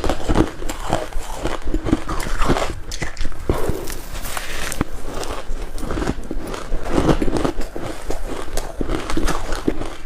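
Crushed and shaved ice being bitten and crunched between the teeth: a dense, irregular run of crisp crunches and crackles.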